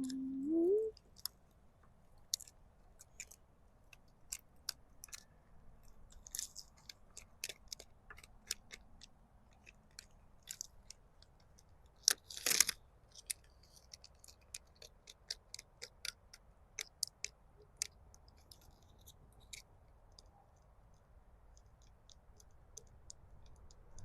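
Faint, irregular clicks and crackles of an adhesive stencil transfer being handled, rubbed and peeled off the box, with one louder scrape about halfway through.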